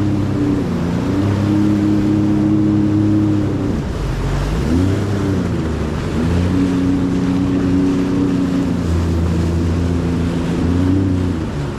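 Jet ski engine running at speed. Its note drops and climbs back briefly about half a second in, again around four to five seconds in, and once more near the end, with a rush of wind and water under it.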